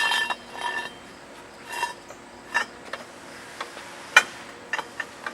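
Metal hand tools clinking and tapping against the clutch and its cover as a clutch-holding tool and bar are set in place: a few short ringing clinks, then scattered sharp taps, the sharpest about four seconds in.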